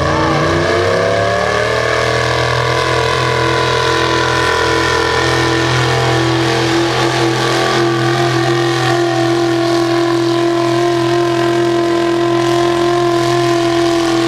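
1979 Ford modified pulling truck's engine running hard under load while it drags the weight-transfer sled. Its pitch climbs over the first couple of seconds, then holds steady and high.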